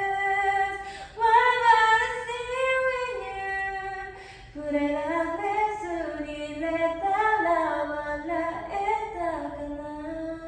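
A woman singing a cappella, a slow melody in long held notes with short pauses between phrases.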